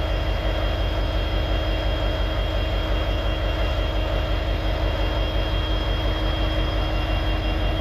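Diesel freight locomotives idling: a steady low rumble with a constant whine over it.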